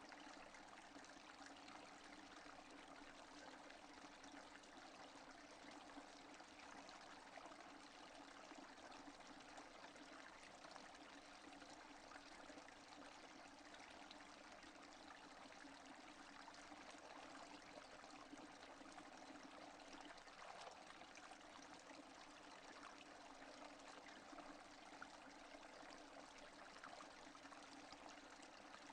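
Steady rain falling, faint and even, with no thunder.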